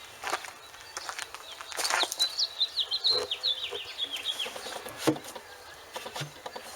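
A songbird chirping in quick runs of short notes, with scattered sharp knocks and clicks, the loudest about five seconds in.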